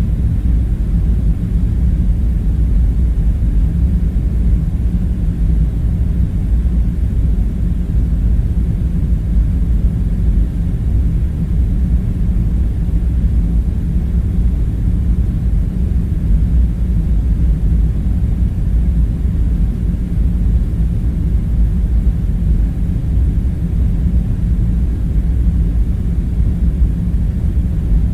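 Steady low rumble with a faint hum, unchanging throughout: the background drone of the bunker ambience.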